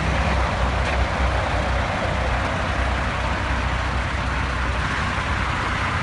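Motor vehicle engine running steadily with a low rumble under a constant wash of road traffic noise.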